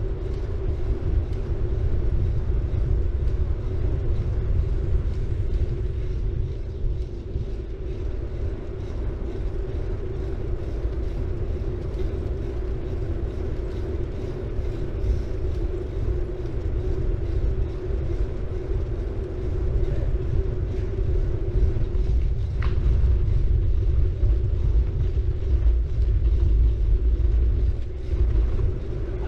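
City bike rolling along, its tyres on the road surface giving a steady low rumble with a constant hum above it and faint ticks now and then.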